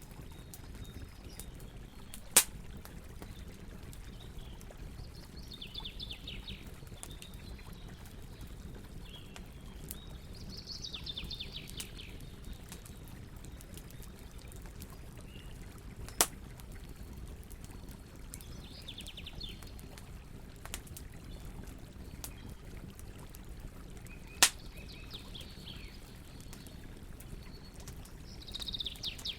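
Campfire burning with a low steady rumble and three sharp wood pops, the loudest sounds. Over it a bird calls about five times, each a short falling trill.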